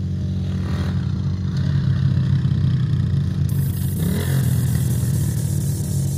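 Defender 250 pit bike engine running, revving up briefly about a second in and again about four seconds in.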